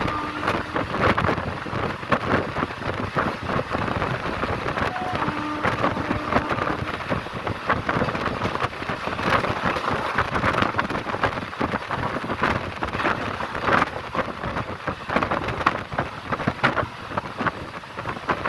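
Train running at high speed on the track: a steady noisy rumble with dense, irregular clatter throughout.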